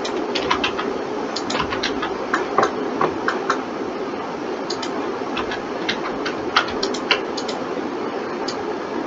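Irregular clicks of a computer mouse and keyboard, in quick clusters with short pauses, over a steady background hum.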